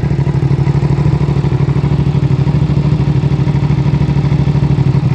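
Suzuki SV650 V-twin engine, big-bored to 662cc with Spears Racing pistons and camshafts, idling steadily through an M4 exhaust just after being started.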